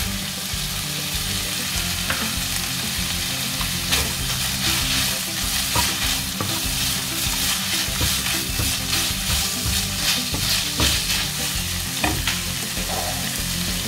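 Minced chicken and chopped onion sizzling in a hot nonstick frying pan, stirred with a wooden spatula whose repeated scrapes across the pan come thickest in the middle seconds.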